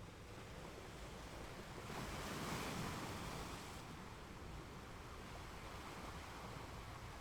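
Ocean waves washing onto a beach: a steady rush of surf, with one wave swelling about two seconds in and fading away by about four seconds.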